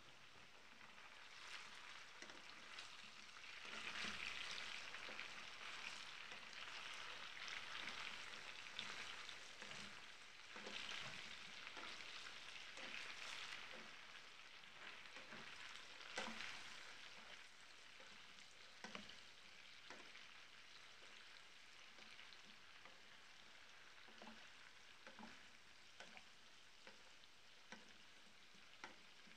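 Diced potatoes frying in a pan give a faint, steady sizzle that swells through the middle while a spatula turns them. Light scrapes and knocks of the spatula against the pan come through the sizzle.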